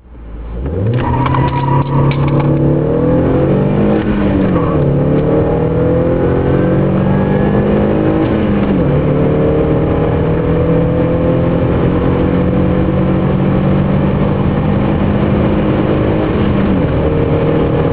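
Audi A4 B6 engine accelerating hard through the gears. The engine note climbs, drops at a gear change about four seconds in and again near nine seconds, then climbs slowly for a long stretch before dropping once more near the end.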